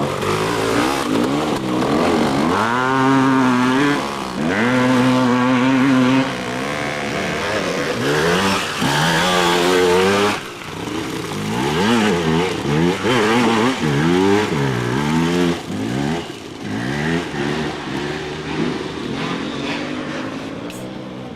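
Dirt bike engines revving up and down as racers ride past, their pitch rising and falling with throttle and gear changes, with more than one bike heard at once at times. The engines fade somewhat near the end.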